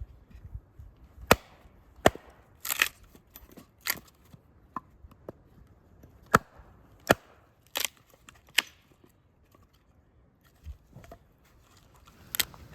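Firewood being readied for a campfire: about nine sharp wooden cracks and knocks, irregularly spaced, a couple with a short crackle after them.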